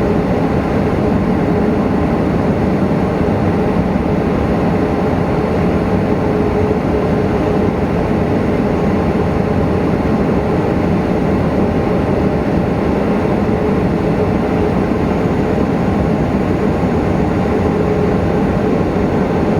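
Steady cockpit noise of a Boeing 737NG on the ground with its CFM56 engines idling: a dense, even rumble with a faint steady hum running through it.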